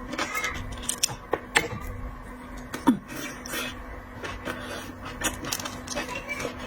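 Irregular clicks, taps and crackles of seafood being handled and eaten, over a low steady hum.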